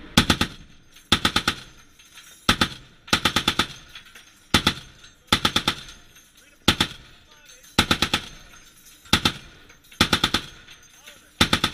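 M2 Browning .50-calibre heavy machine gun firing a rhythm of short and longer bursts, about one burst a second, each burst a quick run of rapid shots.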